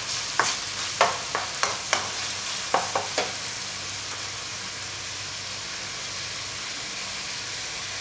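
Chicken and onion sizzling in hot oil in a metal wok, with a wooden spatula knocking and scraping against the wok about eight times over the first three seconds as they are stirred; after that a steady sizzle alone.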